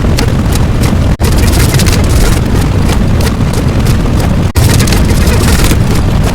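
A loud, steady rumbling roar of noise, heaviest in the low end, broken by two very short gaps about a second in and again about four and a half seconds in.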